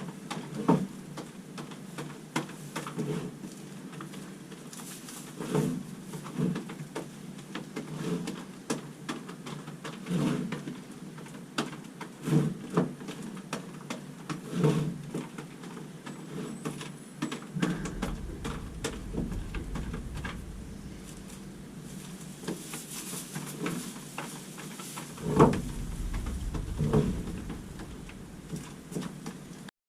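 Irregular soft knocks and thumps, about one every second or two, with a low rumble coming in twice in the second half.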